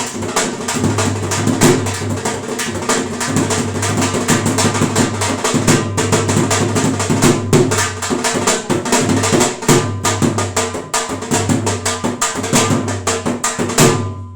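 Dhol drum played in a fast, dense rhythm of stick strokes over a steady low tone, stopping abruptly just before the end.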